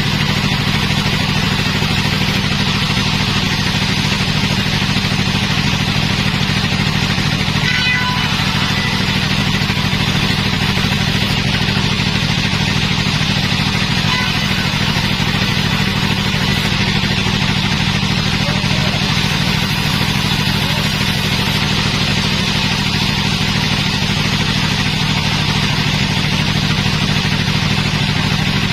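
Sawmill machinery running steadily: an engine-like drone that stays at one even pace and level throughout.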